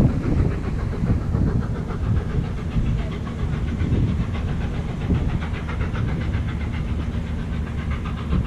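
Gresley A4 Pacific No. 60009, a three-cylinder steam locomotive, working a train: a steady rumble and steam hiss with a fast, regular beat.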